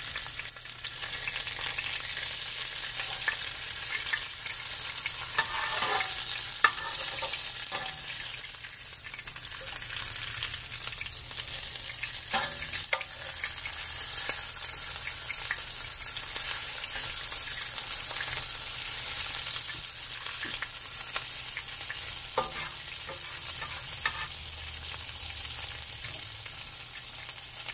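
Pork chop sizzling as it fries in canola oil in a skillet, with a metal spatula scraping and clicking against the pan a few times.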